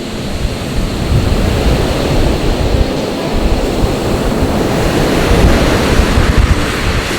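Sea surf washing onto the shore in a steady rush that swells slightly, with wind buffeting the microphone.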